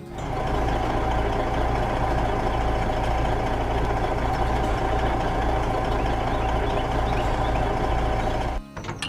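Heavy diesel truck engine running steadily with a low droning hum, cutting out briefly near the end.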